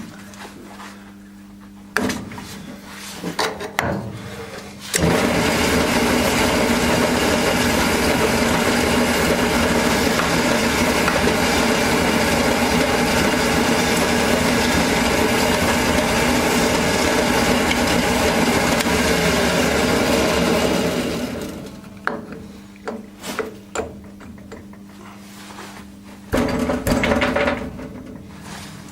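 Electric workshop machine running steadily for about sixteen seconds, then spinning down, likely machining a part to fit the hole in a tractor starter's end plate. Light clinks and knocks of metal parts being handled come before and after it.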